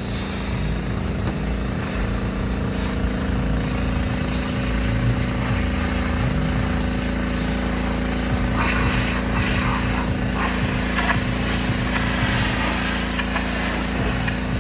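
An engine running steadily with a constant drone, with short bursts of hissing about nine to eleven seconds in.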